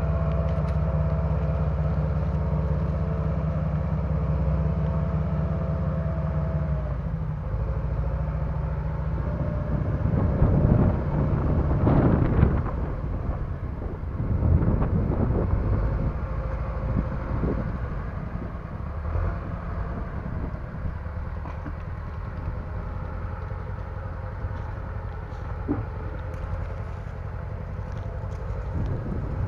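Bulldozer engine running steadily. Its note changes about seven seconds in, then it surges louder a few times under load before settling again.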